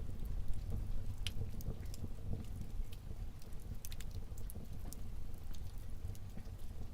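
Wood fire burning in a fireplace: scattered sharp pops and crackles over a low, steady rumble of the flames.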